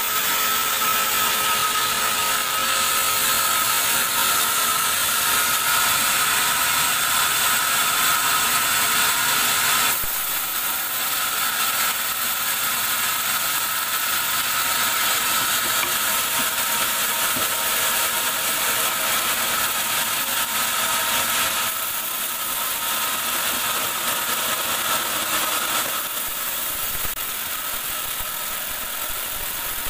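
Band sawmill cutting through a teak log: a steady whine and hiss from the blade in the wood. It eases a little about ten seconds in and again near the end.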